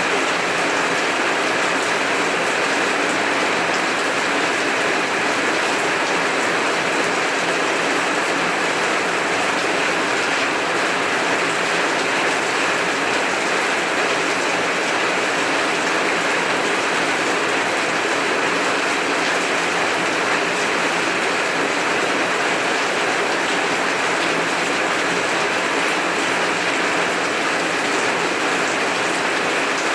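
Heavy rain falling steadily: a dense, even wash of rain noise that never changes.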